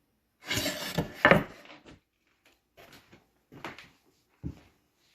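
Wooden hive-box boards being handled: a scraping clatter with two sharp knocks about a second in, then a few short, separate wooden knocks as pieces are set down.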